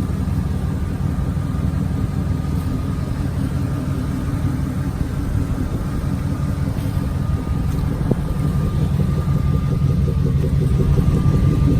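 Lincoln Navigator's engine idling through a Carven R Series exhaust: a steady deep rumble with a faint, steady high tone above it. It gets slightly louder near the end.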